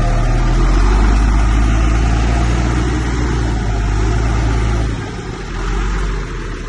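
Diesel engine of heavy earthmoving machinery running hard, a loud steady low drone over broad mechanical noise; the low drone drops away about five seconds in.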